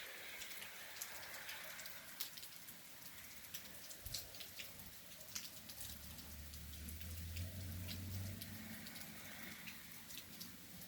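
Rain falling, with many separate drops ticking sharply over a soft steady hiss. A low rumble comes in about halfway through and fades a few seconds later.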